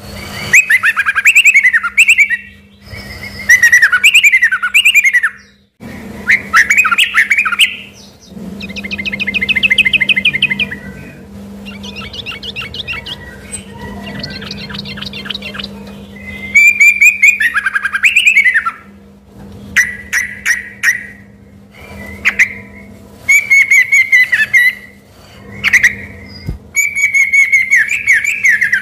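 Yellow-vented bulbul (trucukan) singing loud, varied phrases in quick succession, with rapid trills in the middle. Its song carries shama-like (murai batu) material. A faint steady hum lies underneath.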